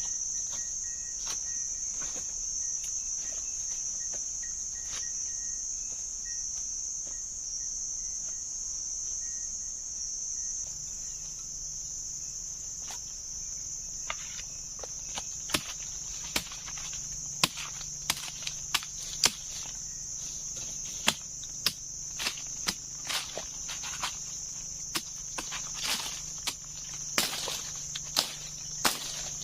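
A steady, high-pitched chorus of insects runs throughout. From about halfway on, irregular sharp knocks and taps sound over it, up to a couple a second.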